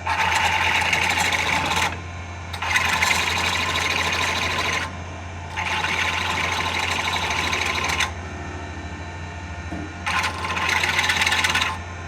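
A workshop tool runs in four bursts of loud, hissing clatter, each about two seconds long with short pauses between them, over a steady low hum.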